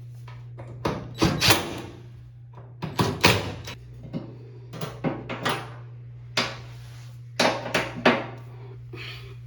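Irregular knocks and thuds in clusters every second or two as a front-loading washing machine's rubber door seal is worked onto the drum opening, over a steady low hum.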